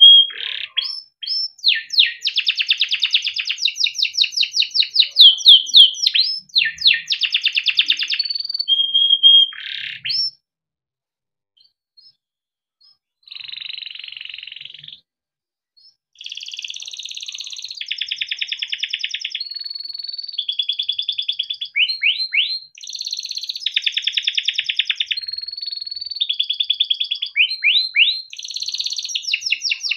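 Male domestic canary singing a long song of fast rolling trills and rapid repeated chirps in high phrases, breaking off for a few seconds near the middle before starting again.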